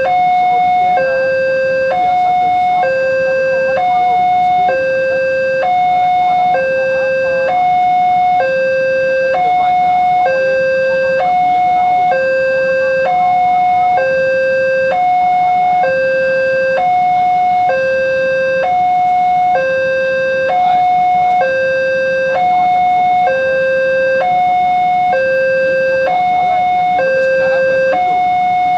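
Indonesian railway level-crossing warning alarm sounding its two-tone signal, a higher and a lower note alternating about once a second without a break. It is the warning that a train is approaching the crossing.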